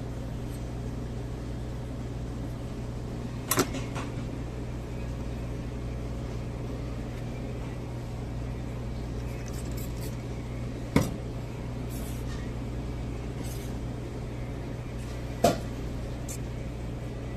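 Steady low hum with three sharp clicks, a few seconds in, about two-thirds through and near the end, and a few fainter ticks between them.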